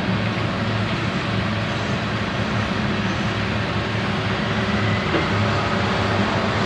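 Freight train of coal hopper cars rolling past: a steady rumble of wheels on the rails.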